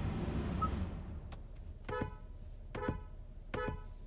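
Car horn tapped in three short, evenly spaced beeps a little under a second apart, giving a countdown, heard from inside the car's cabin. A low steady noise fades away before the beeps begin.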